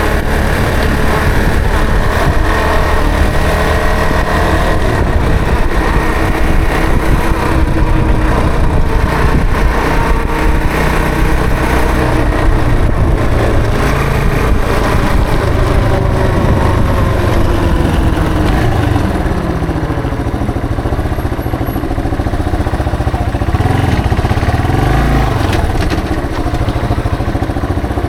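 Yamaha TW225's air-cooled single-cylinder four-stroke engine running while riding through city streets. Its pitch falls about two-thirds of the way through as the bike slows, then it runs lower and steadier.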